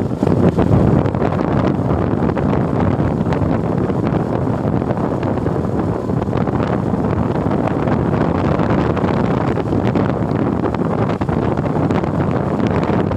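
Steady wind rushing and buffeting over the microphone of a moving motorcycle, with the ride's road and vehicle noise underneath.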